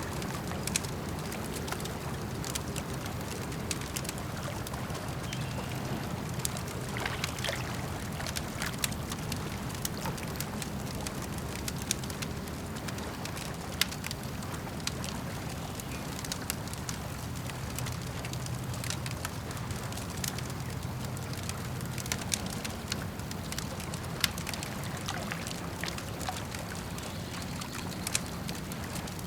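Campfire crackling with scattered sharp pops and snaps of burning wood, over a steady low wash of lapping lake water.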